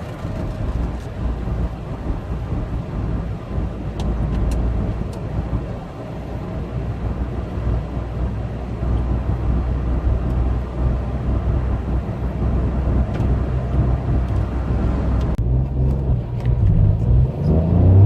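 Peugeot 108's 1.2-litre three-cylinder petrol engine running steadily under road and tyre noise. Near the end the engine note gets louder and starts to rise as the car accelerates.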